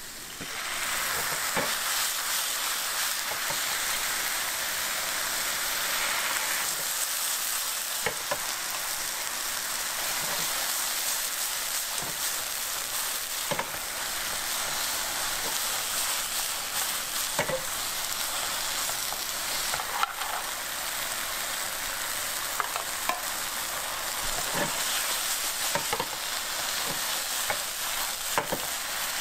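Mushrooms and fish cake sizzling in a frying pan, the sizzle growing louder about half a second in as a liquid is poured into the hot pan. A wooden spatula stirring the pan knocks and scrapes against it now and then.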